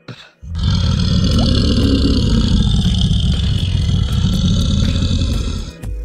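A large animal roaring: one long, deep roar of about five seconds that starts about half a second in and stops just before the end.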